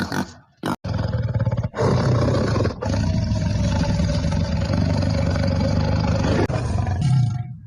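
A loud, rough animal call held for about six seconds, broken twice near the start, with a shorter pitched call just before the end.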